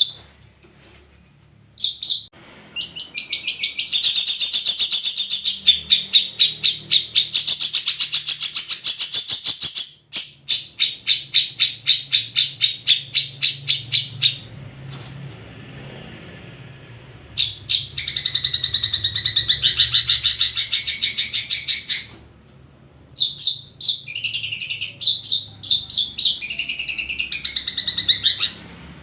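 Long-tailed shrike (cendet) singing: long, fast runs of rapidly repeated high, chattering notes in several phrases of a few seconds each, broken by short pauses.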